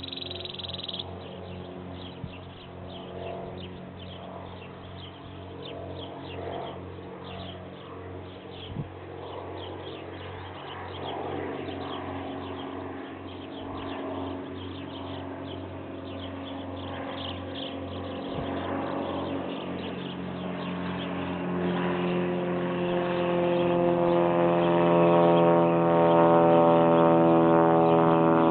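Propeller tow plane's piston engine droning, growing steadily louder as it approaches and is loudest over the last few seconds. Birds chirp in the background.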